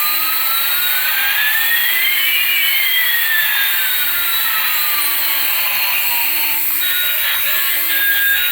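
Electronic jet-engine sound effect of a toy airliner: a steady hiss with one whistle gliding up while another glides down across it. Near the end the hiss drops away and short choppy electronic tones begin.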